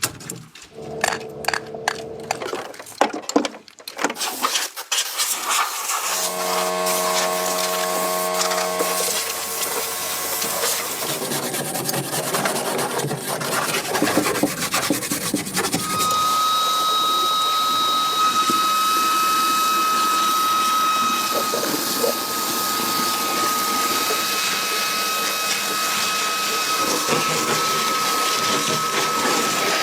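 A power tool works steadily on the car, with a continuous rasping noise and, from about halfway through, a steady high whine.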